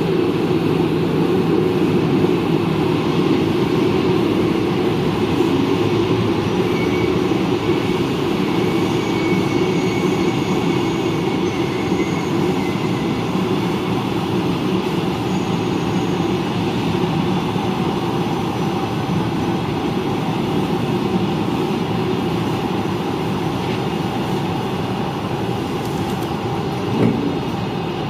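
A train of double-deck passenger coaches running past on the near track, giving a steady rumble of wheels on rail. A faint high wheel squeal comes in during the middle.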